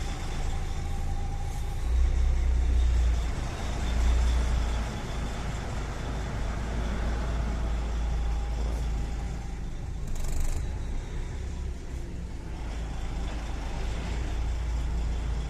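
Semi-truck's diesel engine idling with a steady low rumble that swells twice in the first few seconds. About ten seconds in, a short hiss of compressed air from the truck's air system.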